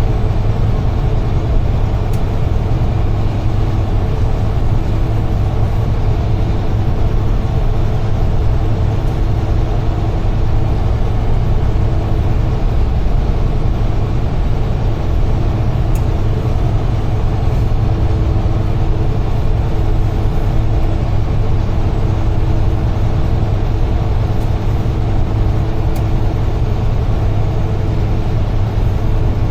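Cab interior of a UD Trucks Quon heavy truck under way: a steady diesel engine drone with road noise, unchanging throughout.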